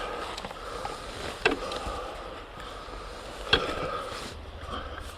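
Enduro rider breathing hard in short rasping swells, with two sharp knocks about two seconds apart.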